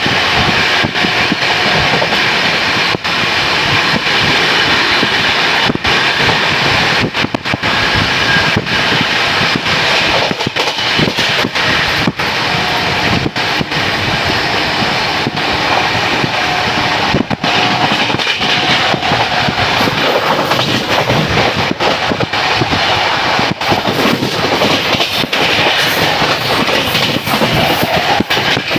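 Train moving on the tracks close by: a loud, steady rumble and clatter of wheels on rails.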